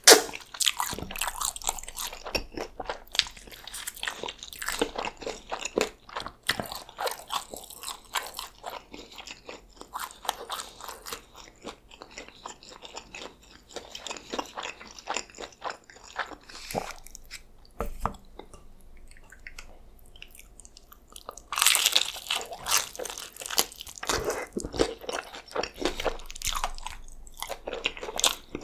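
Close-miked chewing and crunching of birria tacos, irregular crisp crackles and wet bites. It eases off for a few seconds, then comes a loud crunchy bite about three quarters of the way through, followed by more chewing.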